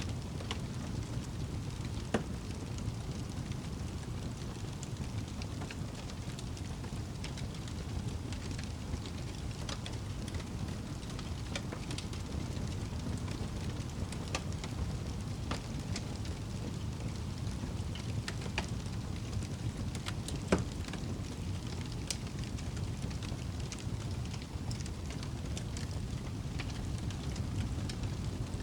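Campfire crackling with scattered small snaps over a steady low rumble, and two sharper pops, about two seconds in and past the middle.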